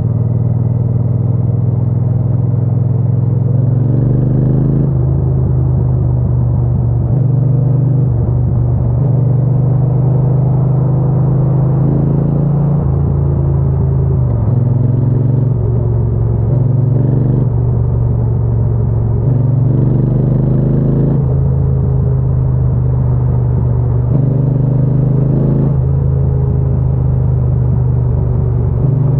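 Triumph Bonneville T120's 1200 cc parallel-twin engine and exhaust running while the motorcycle is ridden at a fairly steady pace, a constant low rumble with small shifts in tone every second or two.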